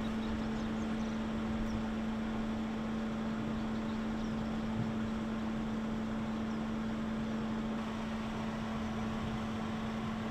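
Vehicle engine running steadily with a constant low hum over even road or cabin noise.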